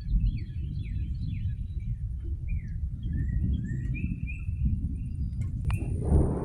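Birds chirping in short, falling whistled notes over a steady low outdoor rumble. There is a sharp click near the end, and a louder low rumble begins to swell right at the end.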